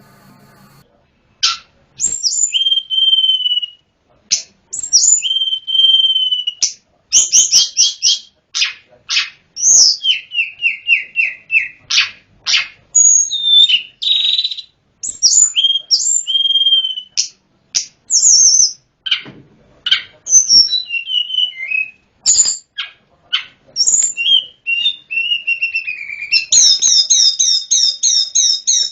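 A sulingan gunung (tledekan gunung) songbird singing a rapid, varied run of clear flute-like whistles, slurred notes and short trills, ending in a fast evenly repeated trill.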